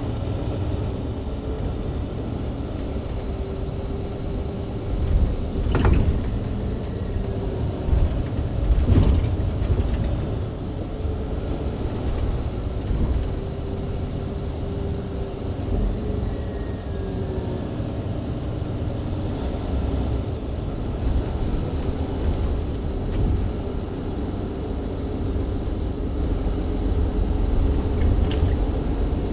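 Mercedes-Benz Citaro C2 LE hybrid bus with Voith automatic gearbox driving in town, engine and drivetrain running with steady road rumble and a wavering engine tone. A few sharp knocks or rattles come about six and nine seconds in and again near the end.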